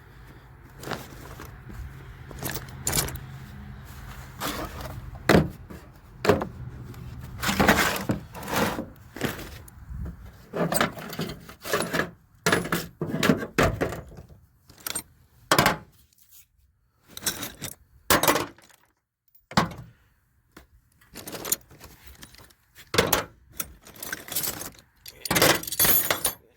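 Metal hand tools clinking and clanking as they are handled and laid out: irregular sharp knocks and rattles, with a faint low hum under the first third.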